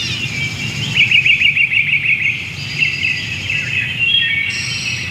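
Birds chirping and singing, with a fast trill of rapidly repeated notes about a second in, over a low steady rumble.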